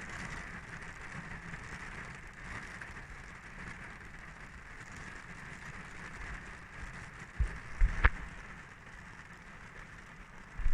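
Steady rain hissing, with low gusts of wind buffeting the microphone and a single knock about eight seconds in.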